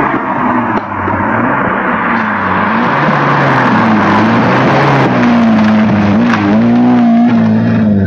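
Rally car engine driven hard as the car approaches at speed and reaches the spot, its pitch repeatedly climbing and dropping back, getting louder as it comes close.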